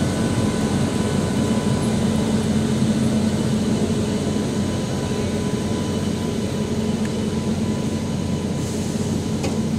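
Passenger train departing slowly behind a WAP-7 electric locomotive, locomotive and then coaches rolling close past: a steady rumble of wheels on rail with a faint steady hum, easing slightly toward the end.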